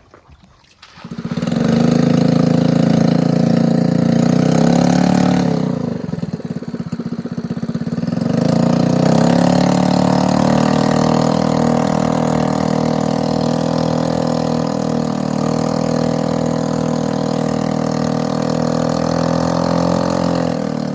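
Small single-cylinder Robin 5 hp engine driving an outrigger boat. It comes in loud about a second in, runs steadily, slows with a falling pitch for a couple of seconds around the middle, then picks up again and runs steadily.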